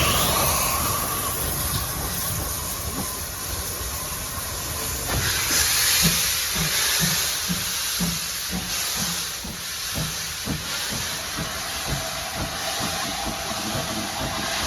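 Steam locomotive letting off a loud hiss of steam about five seconds in, then a regular beat of about two a second for several seconds as the train gets moving.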